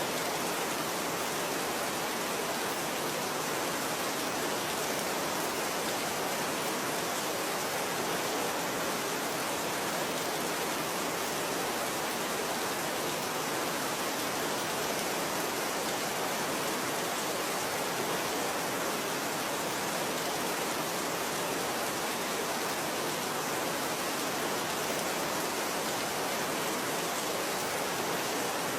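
Steady, even rain with no distinct drops or breaks.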